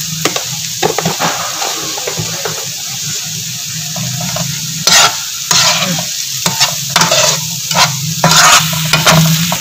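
Scrambled egg and chopped onion sizzling in oil in a wide flat pan, with a spatula scraping and stirring across the pan. The scraping comes in short strokes, a few at first and then about two a second through the second half.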